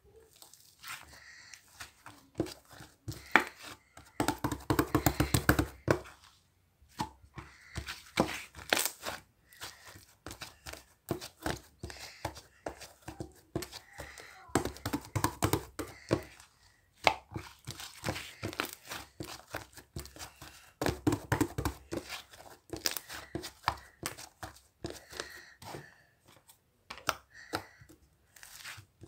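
Slime being squeezed, stretched and poked by hand, making irregular sticky clicks and pops, with denser bursts of crackling about five, fifteen and twenty-one seconds in.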